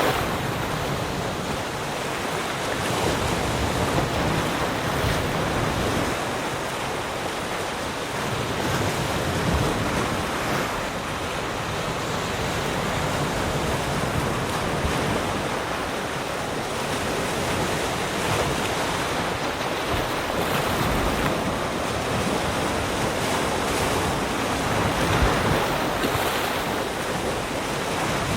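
Ocean waves breaking and washing up the shore in a continuous rush, swelling and easing every few seconds.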